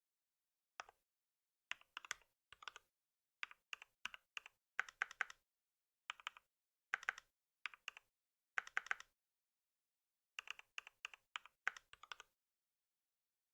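Typing on a computer keyboard: runs of quick keystrokes separated by short pauses, with a longer pause about nine seconds in.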